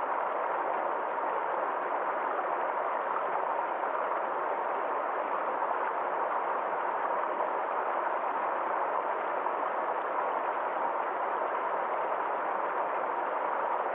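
Small forest stream flowing: a steady, even rush of water that does not change.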